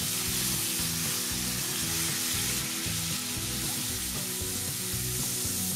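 Freshly added sliced onions frying in hot oil in a kadai, a steady sizzle.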